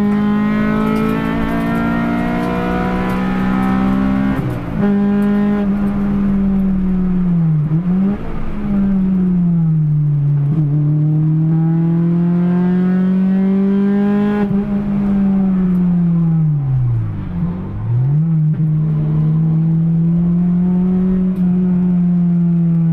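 Honda B18C four-cylinder (Integra Type-R engine) in a stripped-out Civic EG6, heard from inside the cabin at high revs on track. The pitch climbs and falls with gear changes and corners, dipping sharply and climbing back twice, about eight and seventeen seconds in.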